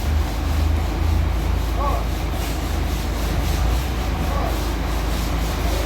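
A heavy engine running steadily with a deep, constant rumble, with faint voices in the background.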